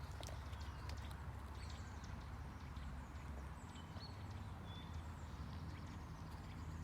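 Outdoor ambience: a steady low rumble, a few sharp clicks in the first second or so, and brief high chirps around four and five seconds in.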